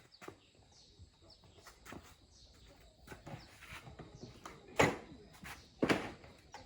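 Scattered light clicks and taps, then two louder sharp knocks about a second apart near the end, with faint bird chirps.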